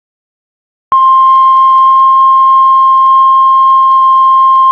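Heart monitor flatline: after a second of silence, one long, steady, unbroken beep tone starts and holds. This is the continuous alarm tone that signals no heartbeat is being detected.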